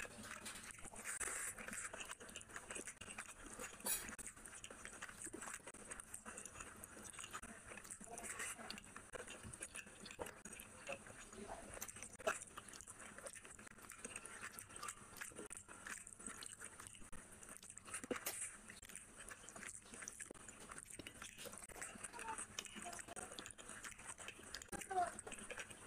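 Close-miked chewing and wet mouth sounds of a person eating rice and fish curry by hand: soft smacking and small irregular clicks, with a few sharper clicks about 4, 12 and 25 seconds in.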